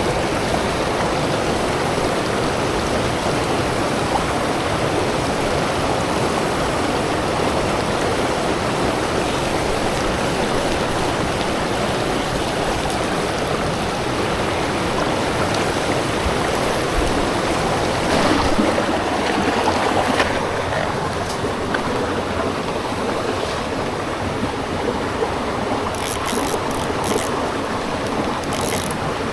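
Steady rushing of a forest river or stream flowing over rocks, an even wash of water noise, with a few brief high clicks near the end.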